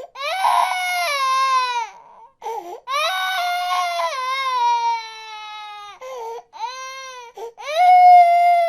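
Baby crying: a series of long wails that each slide down in pitch, broken by short pauses for breath.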